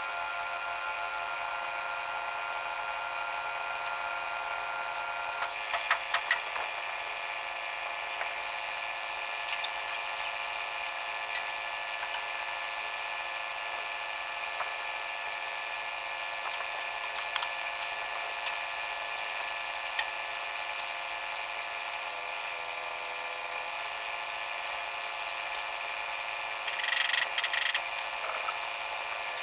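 Machinery running steadily with an unchanging whine made of several tones. A few sharp clicks come about six seconds in, and a louder cluster of rattling knocks near the end.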